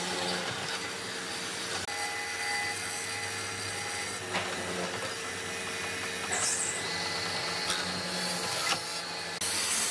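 Electric woodworking power tool running and working wood, with a few sharp knocks; the sound changes abruptly near the end.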